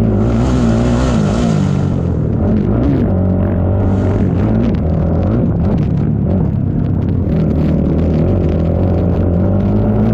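ATV engine running hard, its pitch rising and falling as it is revved on and off the throttle. A hissing rush rides over it for about the first two seconds.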